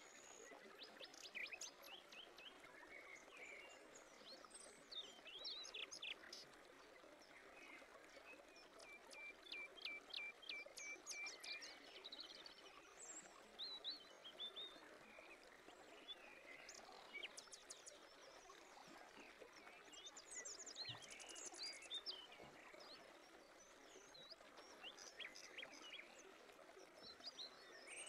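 Faint birdsong from several birds over a soft steady hiss: scattered chirps and trills, with a quick run of repeated notes about ten seconds in.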